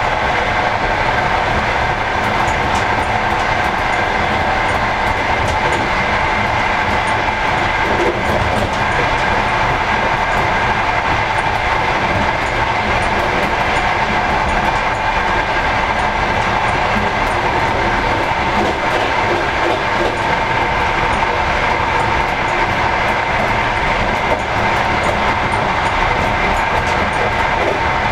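Passenger train running at speed: a steady rumble of the wheels on the rails, with a few high, steady humming tones and scattered light clicks over it.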